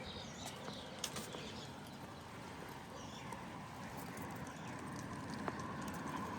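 Quiet street ambience: faint bird chirps and a few sharp clicks over a steady low hum of distant traffic, which grows a little louder in the second half.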